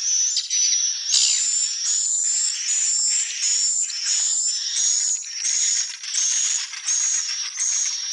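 Swiftlets chirping: a steady run of high, buzzy chirps, each topped by a thin whistled tone, repeating about every 0.7 seconds.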